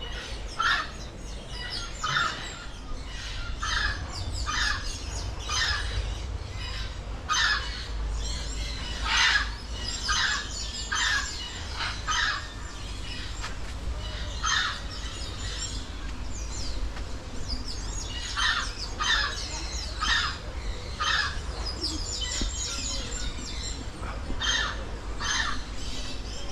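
Birds calling with short, sharp chirps repeated about once a second, with a brief lull a little past halfway, over a low steady rumble.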